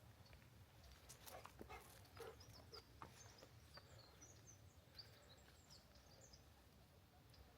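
Near silence with faint, high bird chirps from about three seconds in, after a few soft clicks and taps.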